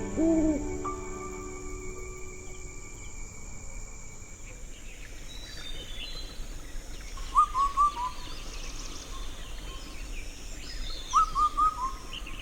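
Rainforest birds calling: a low double hoot at the start, then scattered high chirps, and twice a quick run of three or four short falling notes. Soft sustained music fades out in the first couple of seconds.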